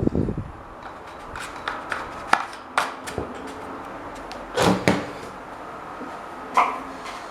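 Several sharp clicks and knocks at irregular intervals, like hard parts being handled or set down, over a faint steady hum. The loudest is a close pair a little past halfway.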